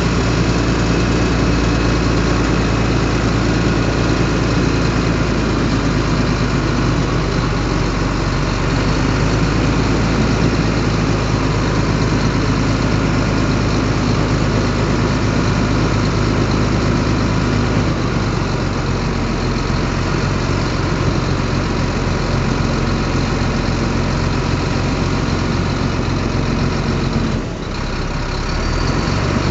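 Heavy earthmoving equipment's diesel engine running steadily under load, with a brief dip and change in the sound about 27 seconds in.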